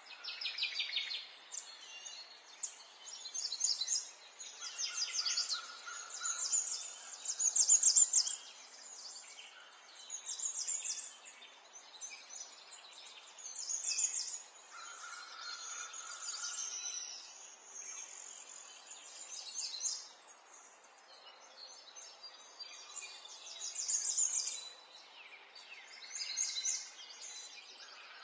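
Several birds singing and chirping, short trills and repeated chirps every second or two, over a faint background hiss.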